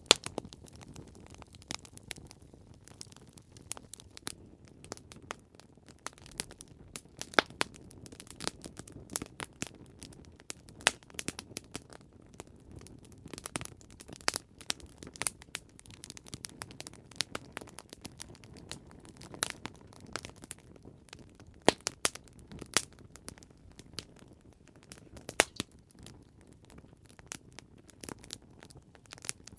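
Wood fire crackling: irregular sharp pops and snaps, several a second, over a soft low rustle of burning.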